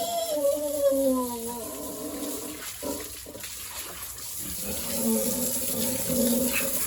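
Pigs calling in a pen, a long falling call in the first second and a half and shorter calls later, over running water as the pen is washed down.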